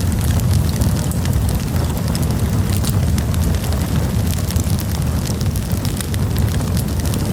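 Wood campfire crackling, with frequent sharp pops and snaps over a steady low rumble.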